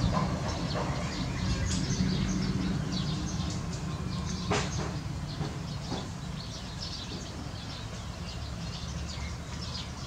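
Small birds giving many short, high chirps over a steady low rumble, with one sharper click about halfway through.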